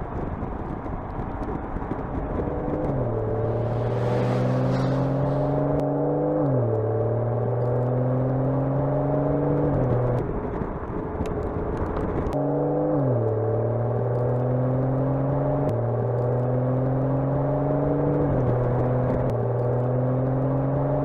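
BMW M760Li's twin-turbo V12 running under way with a steady engine tone. Its pitch drops sharply every few seconds, as at gear changes, and the sound cuts and restarts near the middle.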